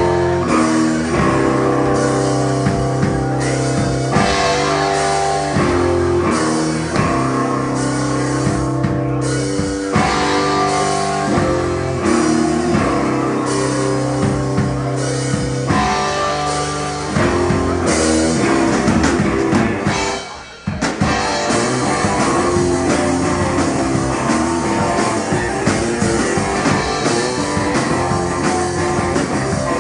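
A live rock band's guitar and drum kit play an instrumental passage. The chord riff is broken by short stops every couple of seconds, and there is a brief break about two-thirds of the way through before the full band comes back in.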